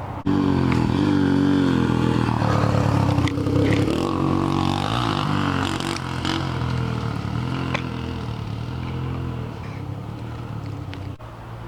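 2000 Yamaha TTR125's single-cylinder four-stroke engine running loud under load, its revs rising and falling as the bike is ridden, with the exhaust made louder by the washer mod. A few sharp ticks and knocks sound over the engine.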